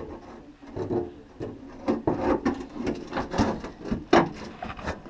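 1952 Mercury steel fender being worked into place on the car body: irregular clunks, knocks and scraping of sheet metal against metal, with the sharpest knock about four seconds in.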